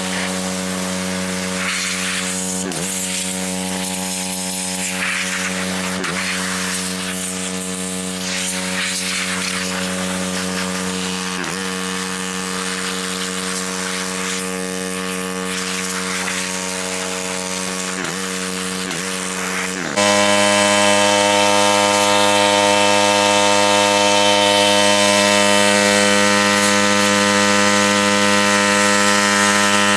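RYOBI 3300 PSI gas pressure washer's 212cc single-cylinder engine running steadily, its pitch dipping briefly several times. About two-thirds of the way through it becomes suddenly louder and fuller and holds steady.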